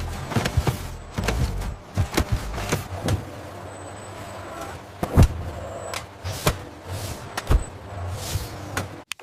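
Irregular sharp knocks and thuds over a steady low hum, the clatter of factory machinery at work, with the loudest knocks about five and seven and a half seconds in.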